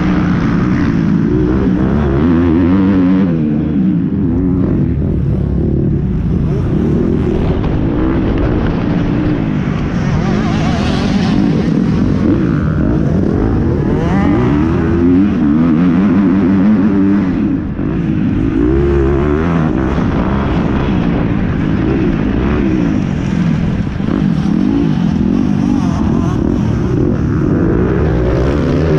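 Motocross dirt bike engine being ridden, its pitch rising and falling again and again as the throttle is opened and closed.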